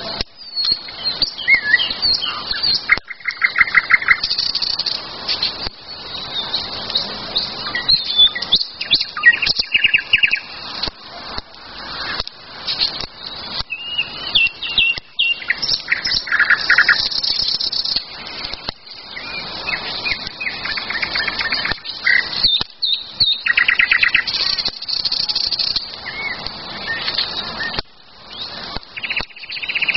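Several songbirds singing in spring woodland, overlapping chirps and rapid trills one after another, with frequent short clicks among them.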